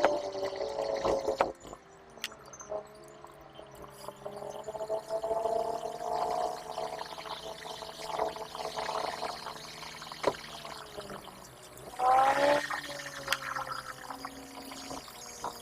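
Car engine heard from inside the cabin while driving, its pitch drifting slowly with road speed, then rising sharply as it revs up about twelve seconds in.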